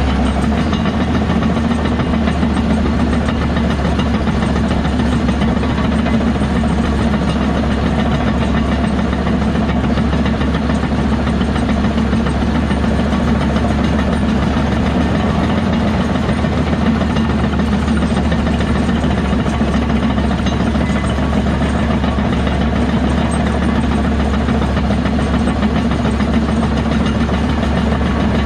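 Diesel engine of heavy earthmoving machinery running steadily with a low drone, with no clear revving or stopping.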